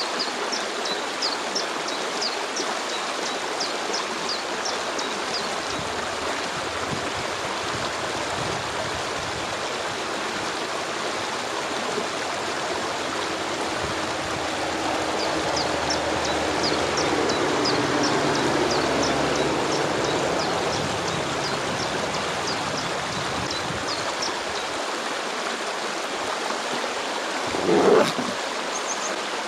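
Stream flowing steadily over stones. Over it a small bird sings rapid series of high, quick chirps, about four a second, twice; a low hum swells and fades in the middle, and a short loud knock sounds near the end.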